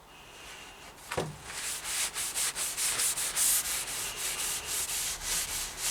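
A rag rubbing linseed oil into a wooden hatchet handle in quick back-and-forth strokes, about four or five a second, with a brief falling squeak about a second in.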